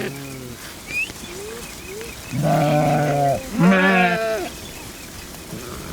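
Sheep bleating in a flock: one call trails off at the start, then two loud, wavering bleats follow each other about two and a half and three and a half seconds in.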